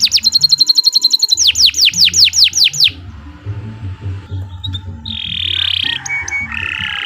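Domestic canary singing: a fast trill of repeated falling notes, broken about a second in by a held whistled note, then after about three seconds softer notes and buzzy rolled phrases.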